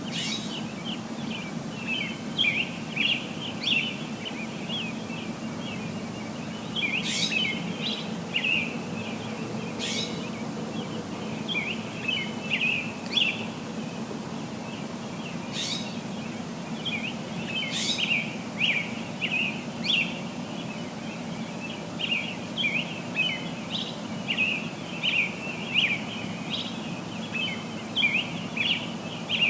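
Many small birds chirping continuously in quick, overlapping short notes, with a few sharper high calls standing out, over a steady low hum.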